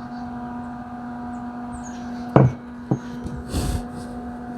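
A steady electrical hum with several fixed tones, broken by a sharp knock a little over two seconds in, a lighter click just after, and a brief rub, like objects being handled close to the microphone.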